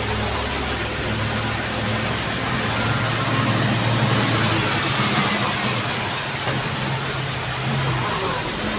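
Heavy truck's diesel engine running steadily under a broad wash of noise.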